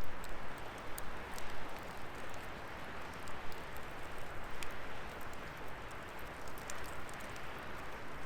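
Firewood burning: a steady hiss with scattered small crackles and pops from the wood.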